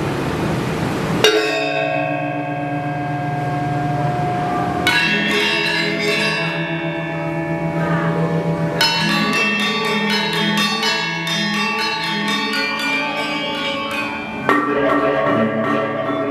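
Balinese gamelan gong ensemble playing: after about a second of rushing noise, bronze gongs and metallophones come in with a loud stroke and ring on. Further strong strokes follow, and from about nine seconds the keyed instruments play a dense, rapid interlocking figure.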